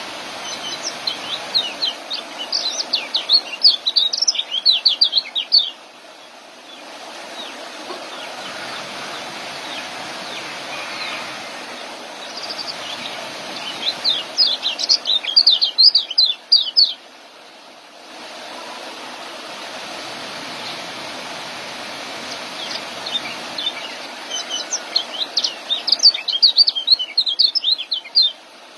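Young kecial (a white-eye) singing its 'ngeriwik' song in three bursts of rapid, high chirping trills, over a steady hiss.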